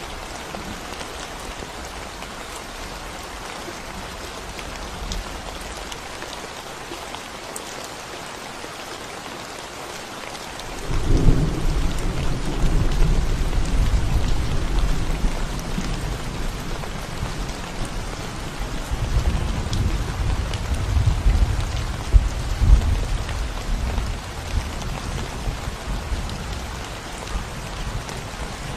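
Steady rain falling on a concrete road. About eleven seconds in, a low rumble of thunder sets in, rolls on for some twelve seconds with a few stronger peaks, then fades back under the rain.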